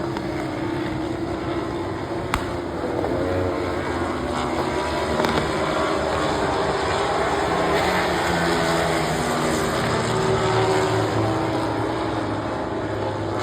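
Several vehicle engines running steadily together, their tones shifting slightly, over a constant background din.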